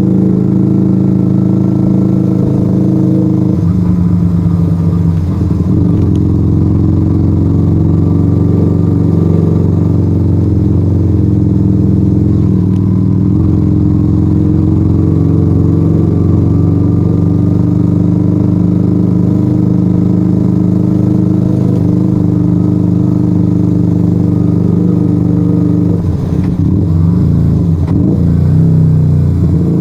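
Yamaha XV125 Virago's small air-cooled V-twin running under way through a straight-piped Turbo Kit exhaust with its dB killers removed: a loud, steady exhaust note. The engine note changes about four seconds in and wavers again near the end.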